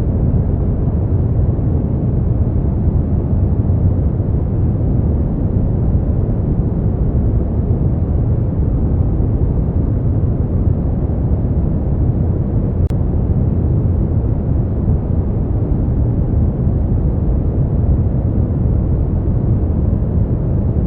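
Brown noise: a steady, deep hiss, strongest in the bass and fading away toward the treble, with no changes.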